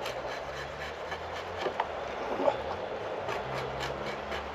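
Green chestnut wood being shaved by hand with a blade, a steady rubbing, scraping sound with faint strokes, over a faint low hum.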